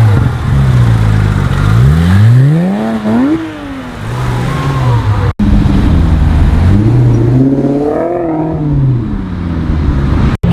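Sports car engines revving: the engine note climbs and falls in a blip about three seconds in and again about eight seconds in, over steady engine running between. The sound cuts out for an instant twice, about halfway and at the end.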